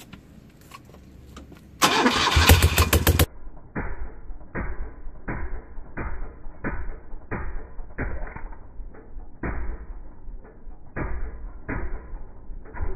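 BMW R80/7's air-cooled flat-twin engine started after standing a while: a loud burst as it cranks and catches about two seconds in. It then runs on with a muffled, slow, even pulsing, about one and a half pulses a second.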